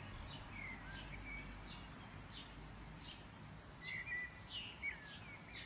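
Faint bird calls: short chirps and quick falling whistles, a few each second, over a steady low background noise.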